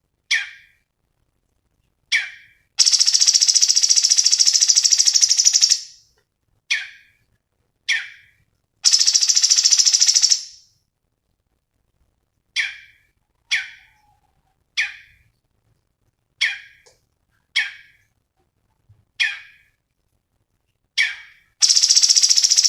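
Cucak cungkok song: short sharp calls repeated roughly once a second, broken by three long, rapid, high trills of two to three seconds each, one near the start, one in the middle and one beginning near the end.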